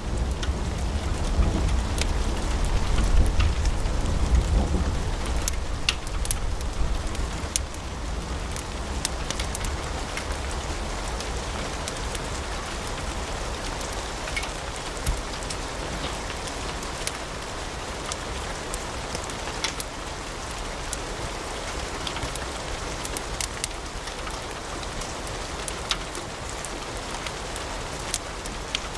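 Wood fire in a fireplace crackling, with a steady hiss and many sharp pops scattered irregularly. A low rumble is loudest in the first few seconds and then fades.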